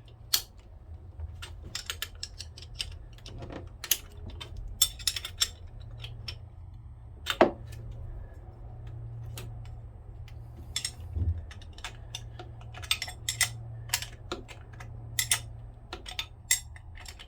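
Hand tools tightening the bolts on a new starter motor bracket of a Yanmar 3QM30H marine diesel: scattered metal clicks and clinks, with short runs of quick clicking.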